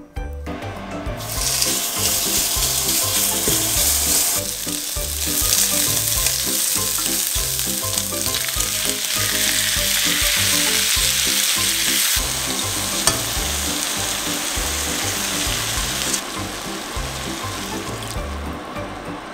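Diced pork jowl and kimchi sizzling loudly in a hot pan as they are stir-fried with a silicone spatula. The sizzle eases off about three-quarters of the way through, over a soft musical beat.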